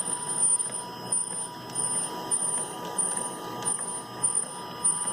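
3D printer laying down its first layers: the stepper motors give short high-pitched whines almost twice a second as the print head makes quick moves, over a steady hum.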